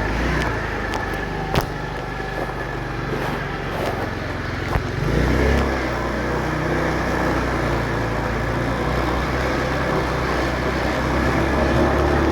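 Motorcycle engine running steadily while riding on city roads, getting louder about five seconds in. Two sharp knocks cut through, about a second and a half in and again near five seconds.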